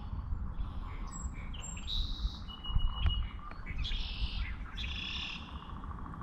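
Songbirds singing in several short chirping phrases, with one brief steady whistled note in the middle, over a low steady rumble.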